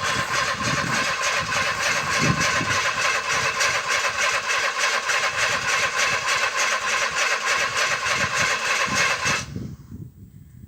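Starter cranking the 1961 Bombardier snowmobile's engine for about nine and a half seconds without it catching, then letting go. It is possibly flooded after the earlier attempts.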